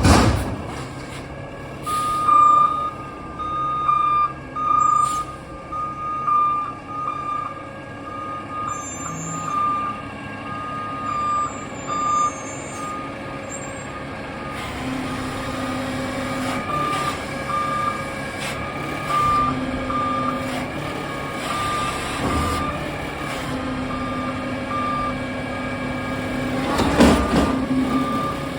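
Garbage truck reversing: its backup alarm beeps about once a second over the steady running of its diesel engine. A loud burst of noise comes near the end.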